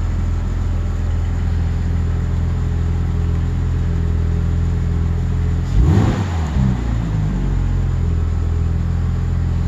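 Porsche 911 Turbo's flat-six engine idling steadily, blipped once about six seconds in with a quick rise and fall in revs, then a smaller second blip before settling back to idle.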